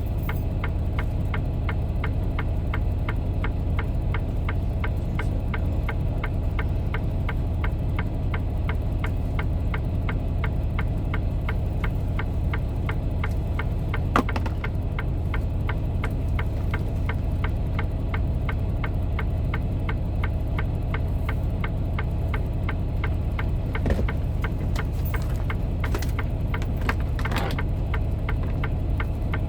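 Semi-truck diesel engine idling with a steady low rumble. There is a short click about halfway through and another a little later.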